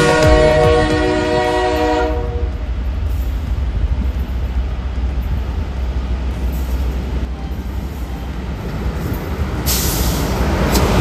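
An electric locomotive hauling a passenger train approaches along the line, with a steady low rumble. Wheel and rail noise rises near the end as it draws close. In the first two seconds, a held chord of tones sounds and stops.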